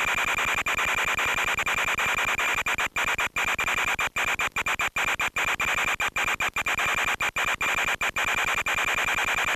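Steady radio hiss and buzz with a constant high whine, broken by many brief dropouts, the sound of an analog FPV video link carrying no onboard audio, its signal breaking up.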